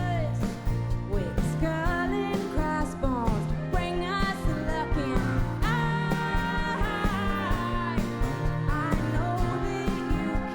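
Live band playing a song, a woman singing over the band with a steady drum beat.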